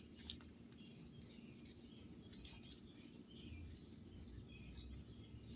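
Near silence: a faint low hum, with a few faint, short, high chirps and ticks scattered through it.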